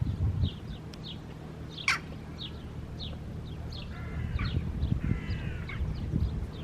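Birds calling outdoors: short high chirps repeat throughout, and two longer, harsher calls come about four and five seconds in, over a low rumble.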